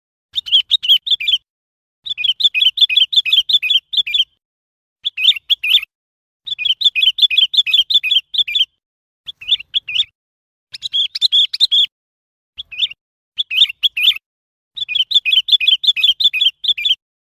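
Sooty-headed bulbul calling in repeated short phrases of quick, bubbly chirps, about nine phrases separated by brief pauses.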